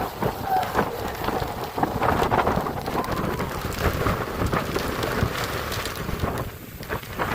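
Hurricane-driven rain and wind beating on the microphone: a dense rush of noise broken by uneven gusty thumps and spatters, easing briefly near the end.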